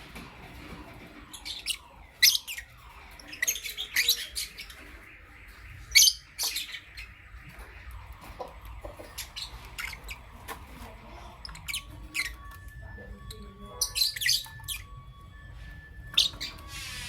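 Lovebirds giving short, shrill chirps and squawks in irregular clusters of a few calls, with quieter stretches between.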